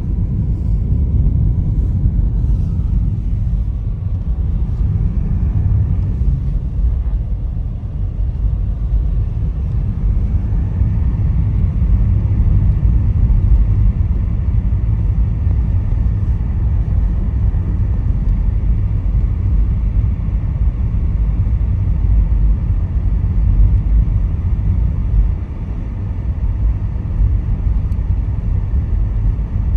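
A car being driven: a steady low rumble of engine and tyre noise.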